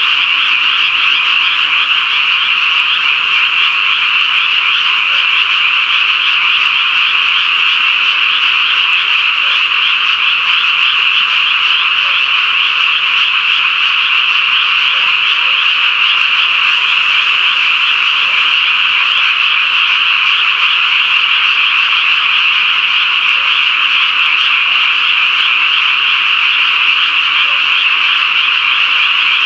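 A dense chorus of frogs calling around a pond: a steady, loud wall of overlapping trills with no pause.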